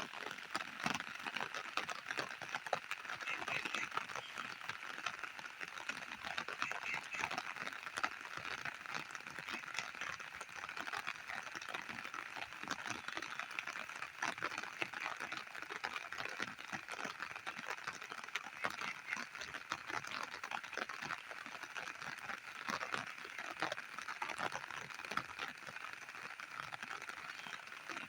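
Steady rain falling, a continuous hiss dotted with many sharp individual drop hits.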